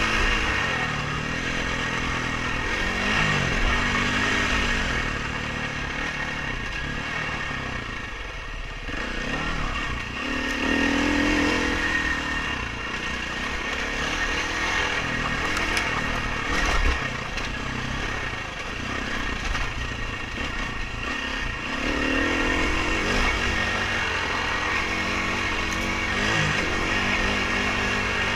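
Dirt bike engine being ridden hard, revving up and dropping back again and again as the throttle is opened and closed.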